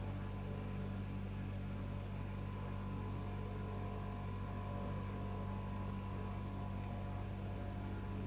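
GAZ Sobol 2752 van driving at steady speed: constant engine and road drone with a low hum.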